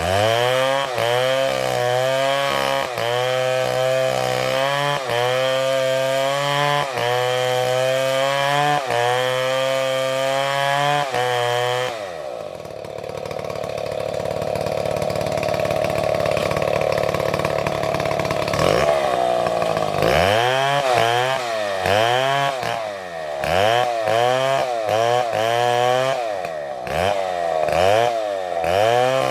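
Two-stroke chainsaw running hard, its engine pitch rising and falling every second or two. In the middle it holds a steadier, rougher note for several seconds, then the pitch swings quicker again near the end.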